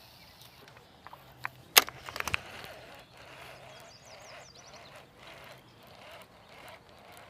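A few sharp knocks and clicks about two seconds in, the loudest a single crack, over a faint outdoor background with a few brief high chirps.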